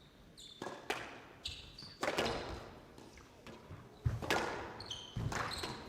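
Squash rally: the ball knocks hard off racket and walls at irregular intervals, with players' shoes squeaking on the court floor in between.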